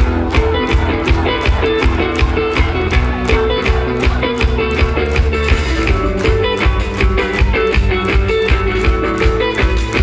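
Live rock band playing an instrumental passage: distorted electric guitars over fast, steady drumming driven by a double-pedal bass drum.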